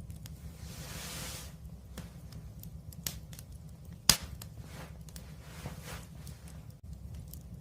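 A wood fire crackling, with scattered small clicks over a low, steady rumble. One sharp, loud pop comes about halfway through.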